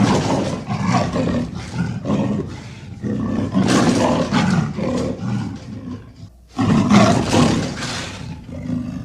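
A large wild animal roaring in a run of rough, growling calls, with a short break about six seconds in.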